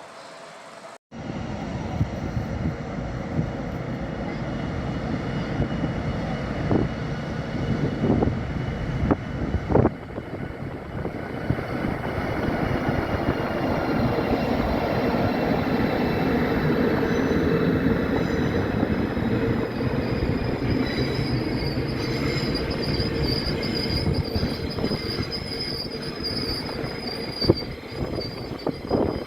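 A train running through a station: a steady rumble of wheels on rail with scattered clunks over rail joints. High, thin wheel squeal comes in during the last third.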